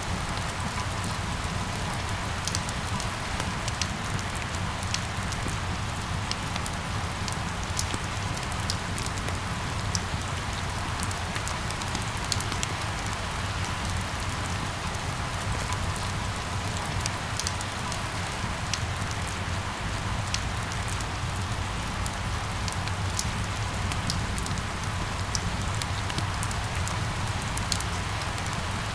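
Steady rain falling on hard surfaces, a continuous hiss with scattered close drop ticks and a low rumble underneath.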